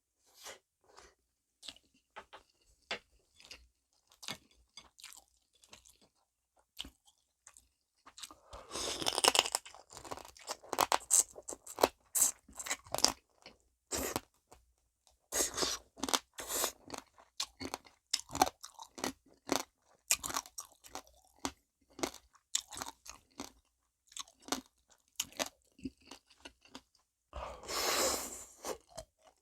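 Chewing and crunching of soy-sauce-marinated stone crab (dol-gejang) shells: crisp cracking strokes, sparse and soft for the first several seconds, then dense, loud crunching from about eight seconds in.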